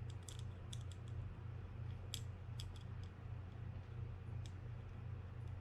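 Light, irregular clicks of small metal screws being picked up and set down on a work surface, over a steady low hum.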